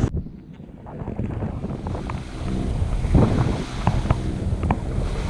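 Wind buffeting the microphone and water washing past the hull of a sailboat under way, with the boat's engine running steadily beneath, motorsailing.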